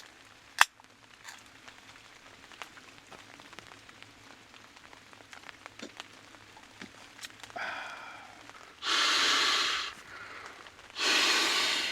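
A man's two loud, breathy exhales, each about a second long, near the end, the satisfied sighs of someone drinking a beer. Faint scattered ticks of light rain and a sharp click just after the start come before them.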